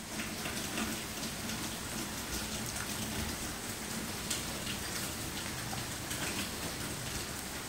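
Rain falling steadily: an even hiss with scattered ticks of individual drops.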